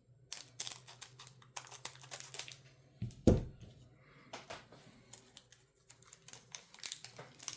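Magic: The Gathering cards and booster packs being handled on a table: a run of light clicks and rustles, with one dull thump a little over three seconds in.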